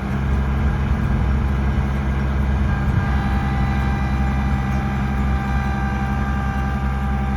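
Kubota tractor's diesel engine running steadily at working speed, a deep, even engine note.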